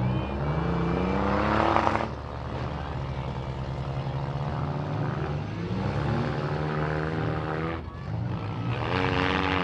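Engines of several gutted front-wheel-drive demolition derby cars running and revving, their pitch rising and falling; the strongest rev comes just before two seconds in, with another rise near the end.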